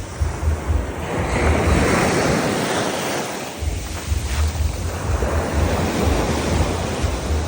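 Sea waves washing onto a beach, with wind buffeting the microphone.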